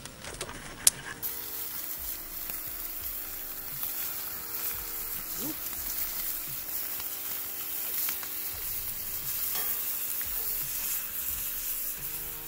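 Bacon frying in a skillet over a campfire: a few sharp clicks, then from about a second in a steady sizzle.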